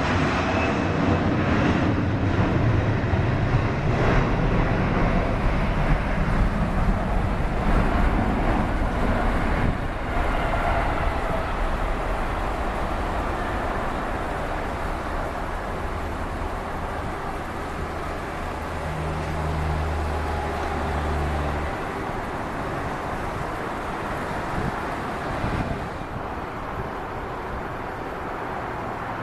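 Jet airliner engines rumbling as an aircraft passes, loudest over the first ten seconds or so and then slowly fading away.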